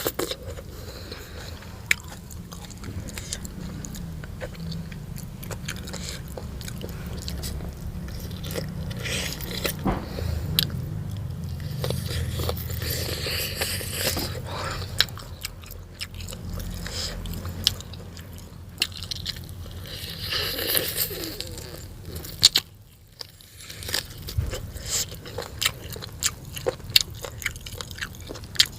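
A person eating close to the microphone: steady chewing with many crunchy bites and sharp mouth clicks, pausing briefly about three-quarters of the way through.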